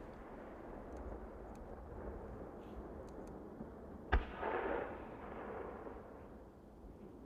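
Aerial fireworks: one sharp shell burst about four seconds in, followed by a brief rushing crackle, over a fading rumble from earlier bursts.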